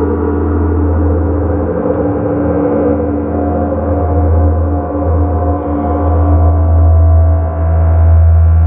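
Electronic ambient drone played on analog synthesizers: a loud, sustained low drone under many layered held tones, with a higher tone entering about three seconds in.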